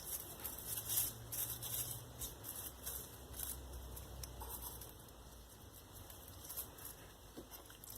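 Hands spreading rosemary over raw steak: soft, irregular rustling and small ticks that thin out over the second half.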